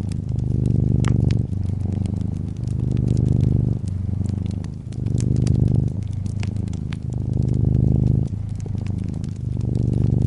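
A domestic cat purring steadily, the purr shifting as it breathes in and out about every second or so, with a wood fire's crackle: many small sharp pops scattered over it.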